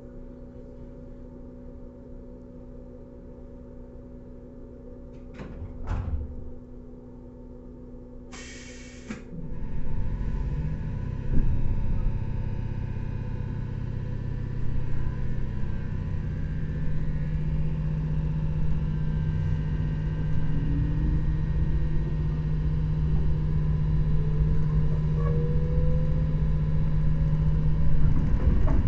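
Inside the motor car of a JR 115-series electric train: a quiet steady hum while standing, a couple of knocks, and a short hiss of air just past eight seconds in. The train then pulls away, and a low rumble from the MT54 traction motors and wheels grows, with a whine rising in pitch as it accelerates.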